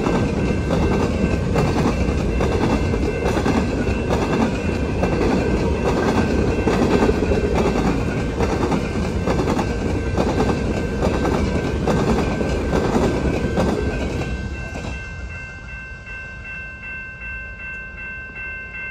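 Covered hopper cars of a long freight train rolling past with a rhythmic clickety-clack of wheels over rail joints, about two knocks a second. The last car passes about fifteen seconds in and the rumble falls away, leaving a level-crossing signal bell ringing with a quick, even beat.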